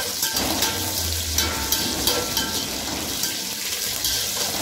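Peanuts, cashews, garlic and curry leaves sizzling and crackling in hot oil in an aluminium pot, being fried until crisp. A wire stirrer scrapes through them against the pot.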